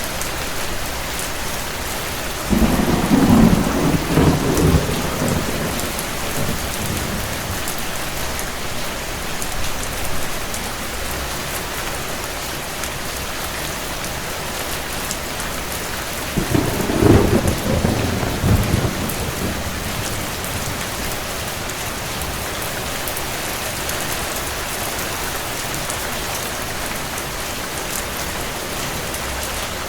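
Steady rain with two rolls of distant thunder. The first rumble comes about two and a half seconds in and lasts several seconds; the second, shorter one comes around sixteen seconds in.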